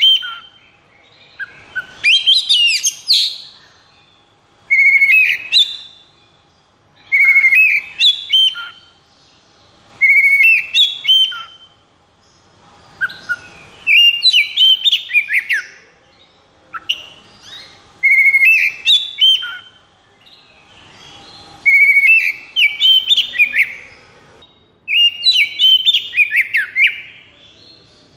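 Oriental magpie-robin (kacer) singing in loud, fast whistled phrases, one every two to three seconds with short gaps between. This is the rapid, unbroken 'konslet' song of a bird in high breeding and fighting excitement.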